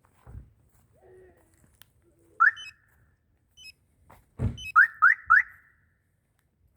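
Car alarm chirps from a remote lock or arm: a single short rising chirp, then about two seconds later a heavy thump followed at once by three quick chirps.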